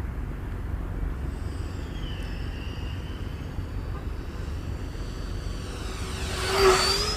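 Electric ducted-fan motor of an FMS Yak 130 RC jet whining as the model flies at about three-quarter throttle. The whine becomes audible about a second in and grows to a brief loud close pass near the end, over a steady low rumble.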